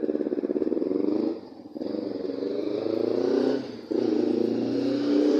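Motorcycle engine revving as it rides past, with a fast pulsing note at first; the engine drops away briefly twice, about a second and a half in and again near four seconds.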